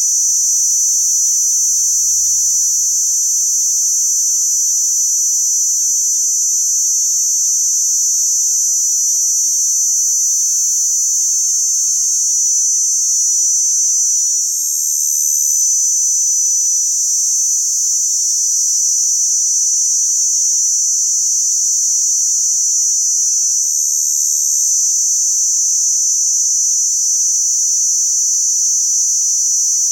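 Crickets chirping in one continuous, steady high-pitched trill. A brief, even higher trill joins twice, about halfway through and again about two-thirds of the way in.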